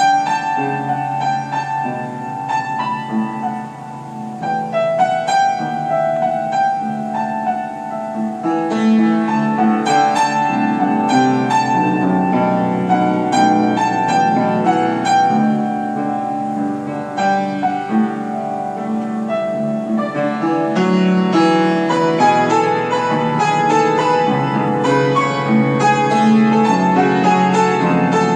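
Piano playing a melody over chords, the music growing fuller and louder about nine seconds in.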